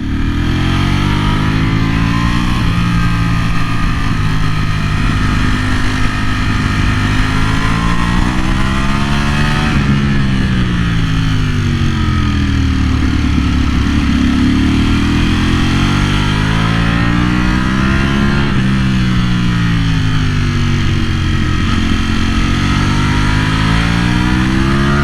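Ducati Panigale V4R's 998cc V4 engine revving under hard riding. Its pitch climbs on the throttle and drops back several times in long rises and falls.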